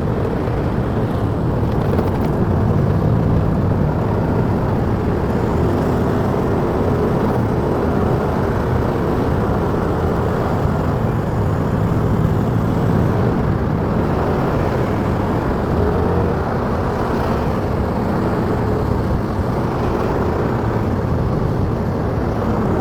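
Steady noise of a motorcycle being ridden on a road: the engine running and road and wind noise, even in level throughout.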